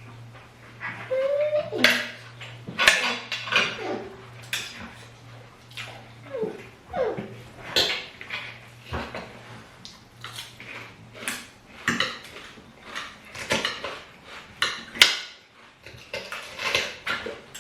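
Cutlery clinking and scraping against plates during a meal, in many short, irregular knocks and clicks.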